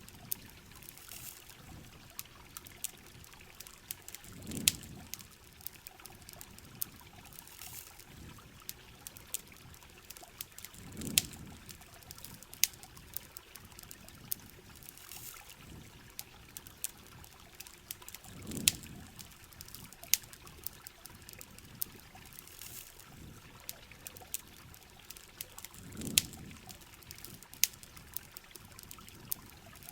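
Rain and campfire ambience: a steady hiss of rain with frequent sharp crackles and pops from the burning wood. A low rush of water swells up and fades four times, about every seven and a half seconds.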